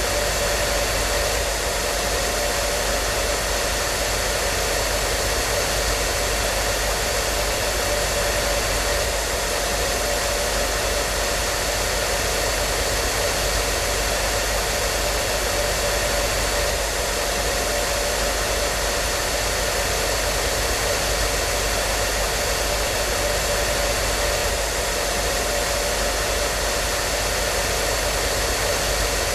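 Hair dryer running steadily, a constant rushing blow of air with a faint motor whine, unchanging throughout.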